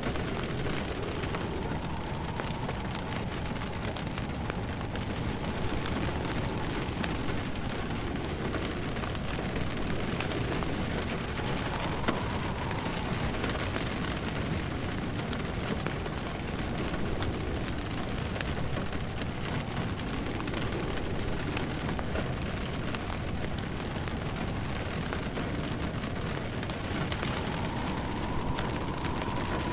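Steady rain hiss mixed with the crackle of a wood fire burning in a fireplace, an even, unbroken bed of sound. A faint wavering whistle comes and goes a few times.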